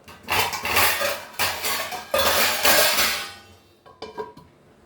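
Metal utensil scraping and clinking against a cooking pot, several loud strokes over about three seconds, then a few light clinks.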